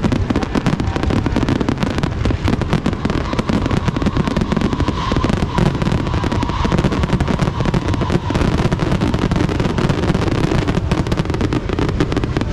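Fireworks going off in a dense, continuous barrage of rapid bangs and crackles, with a faint high whistle running through the middle.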